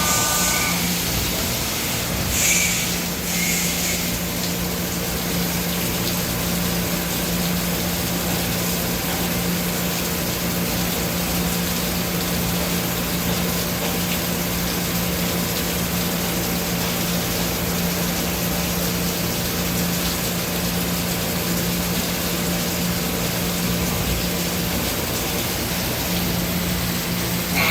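Doosan Puma MX1600ST CNC turning and milling center running under power: a steady hum with an even hiss over it. The hum drops out briefly near the end, then comes back.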